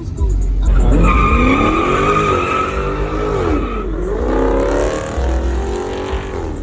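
Car engine revving up and down twice while the tyres squeal with a steady high-pitched screech through the first half.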